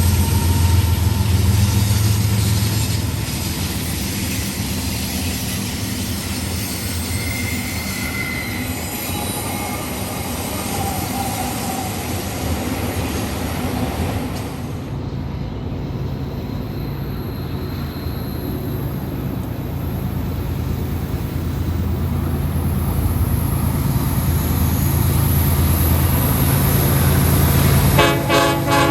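Train running with a steady low rumble, its horn starting to sound near the end.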